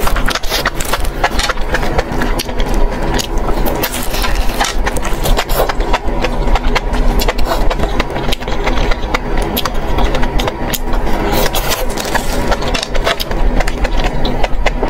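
Close-up eating sounds of a person chewing and biting skewered meat-wrapped enoki mushrooms: many quick clicks, smacks and crunches, over a steady low mechanical-sounding hum.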